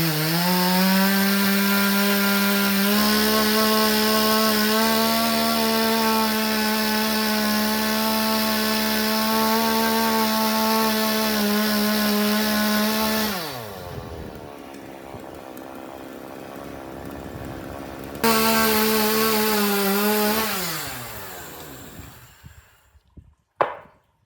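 Chainsaw engine running at high revs, likely cutting through wood, with its pitch sagging and recovering under load. About 13 seconds in it is let off and winds down. It is revved up hard again at about 18 seconds, then winds down and stops. A short knock follows near the end.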